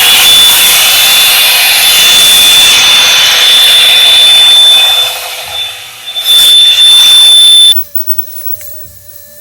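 Revlon One-Step hair dryer and volumizer running on its high setting: a loud rush of air with a steady high whine. It dips for a moment about five seconds in, comes back, then cuts off suddenly about eight seconds in.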